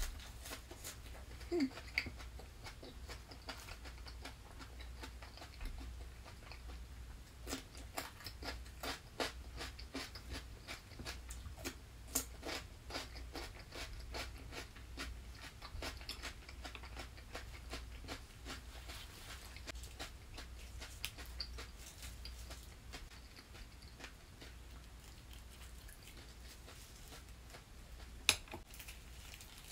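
Crunchy chewing of crispy tempura-fried vegetables close to the microphone: a run of crackly crunches, densest in the middle, with one sharp click near the end.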